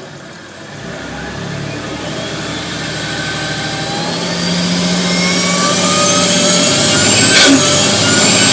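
Twin-turbo Toyota Supra's 2JZ-GTE straight-six accelerating, its pitch and loudness climbing steadily for about seven seconds, with a brief sharp burst of noise near the end.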